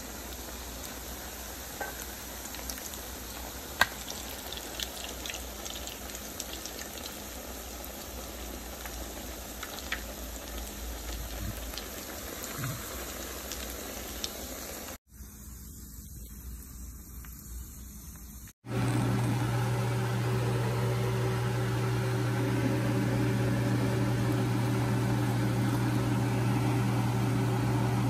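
Salmon patties frying in hot oil, a steady sizzle with scattered pops. About halfway through it cuts off, and after a brief quieter stretch a loud, steady low machine hum takes over.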